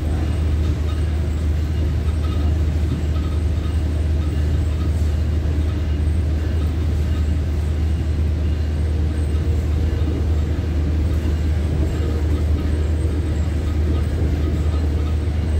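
Steady low rumble of a Tri-Rail commuter train running at speed, heard from inside a passenger coach.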